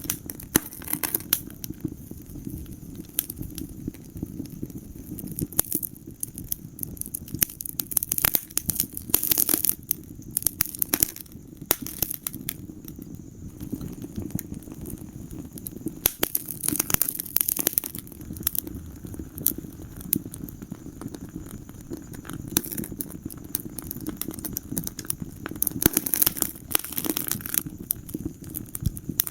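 Wood fire burning in a fireplace: irregular sharp crackles and pops over a steady low rumble of flames, with denser bursts of crackling now and then.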